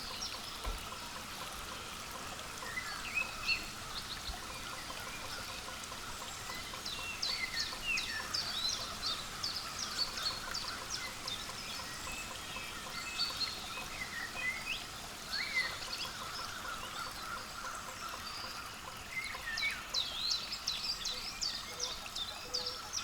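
Small birds chirping and calling, with short high chips and quick falling notes coming in bursts over a steady background hiss.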